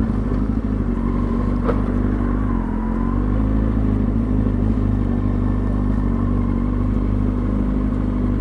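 2003 Kawasaki ZX-6R 636's inline-four engine running at a steady, even pitch while riding. There is a slight dip in pitch around a third of the way in, and a single click a little under two seconds in.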